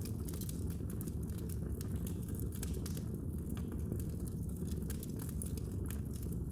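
Fire crackling in a fireplace: many quick, irregular crackles and pops over a steady low rumble of the flames.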